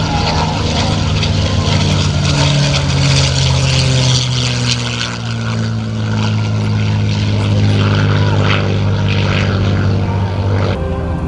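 North American P-51D Mustang's Rolls-Royce Merlin V-12 engine running as the aircraft flies by, its pitch dropping a little a few seconds in. The engine drone drops away suddenly near the end.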